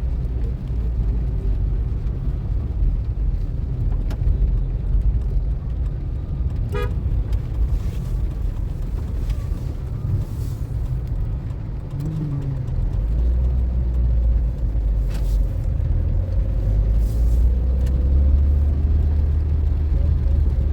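Car running, a steady low engine and road rumble; about 13 seconds in the rumble grows deeper and louder.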